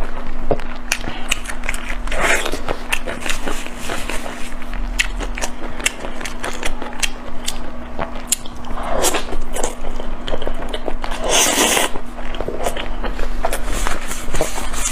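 Close-miked eating sounds: chewing and biting into a sauced chicken drumstick, with many sharp wet clicks and smacks, over a faint steady hum. About eleven and a half seconds in there is a brief, louder rustle.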